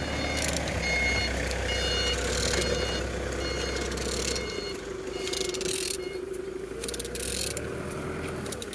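HXDA engine being turned over on the bench, a steady mechanical whirr whose pitch drops about four and a half seconds in.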